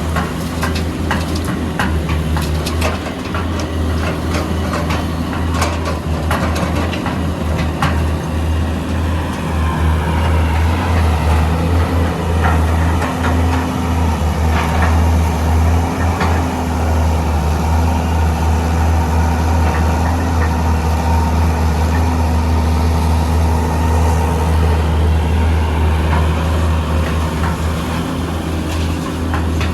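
Heavy diesel engines of an excavator and dump truck running steadily. Scattered knocks and clatters sound over them, most of them in the first few seconds and a few around the middle.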